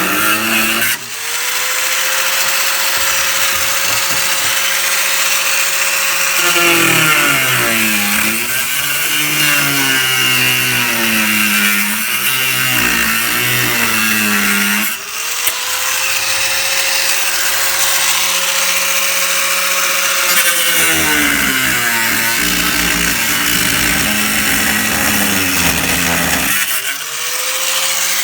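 High-speed cutoff tool spinning up to a steady high whine, then dropping and wavering in pitch as it cuts through a sheet-metal lip. This happens twice, and the tool spins up free once more near the end.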